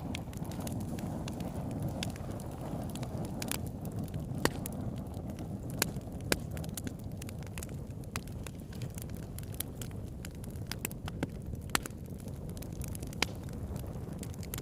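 Campfire burning: a steady low rumble of flames with sharp crackles and pops from the burning wood at irregular moments.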